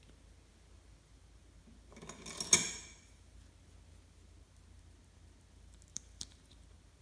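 Slime being handled: a short burst of handling noise that builds to one sharp pop about two and a half seconds in, then two faint clicks near the end.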